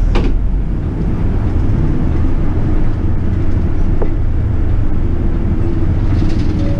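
City bus engine running with a steady low rumble. There is a sharp click at the very start and a faint tick about four seconds in.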